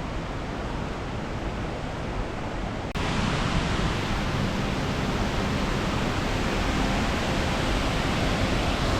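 Steady rush of flowing water. About three seconds in it cuts abruptly to a louder, brighter rush.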